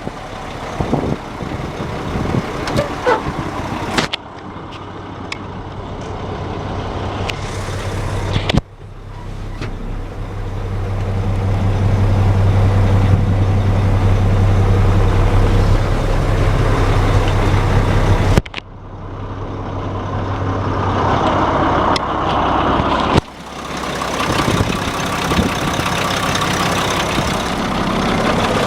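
2007 Mack CV713 dump truck's diesel engine running, heard in several short clips cut one after another. About nine seconds in, the engine speed climbs and holds steady for several seconds before the sound cuts off abruptly.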